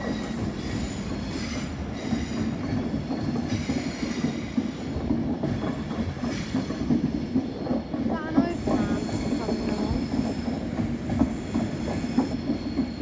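Passenger train running along the platform tracks, a steady rumble with high-pitched wheel squeal and scattered clicks of wheels over rail joints.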